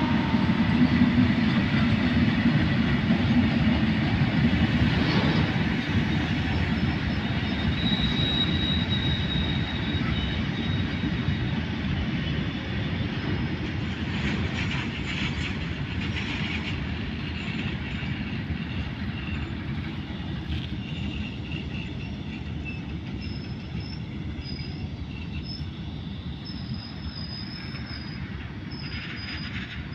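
Train passing at speed on Indian Railways track: the rumble of the wheels and coaches fades slowly as the train moves away. Thin, high wheel squeals come and go in the second half.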